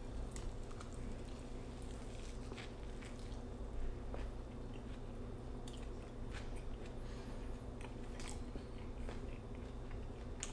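A man bites into a Beyond Meat burger sandwich and chews it: faint, scattered crunches and chewing sounds from the crisp-edged patty and bread, over a steady low hum.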